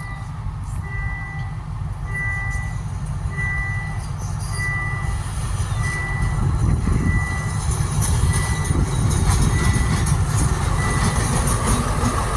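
Train arriving, a low rumble growing louder, with a warning signal beeping about once a second that fades out near the end.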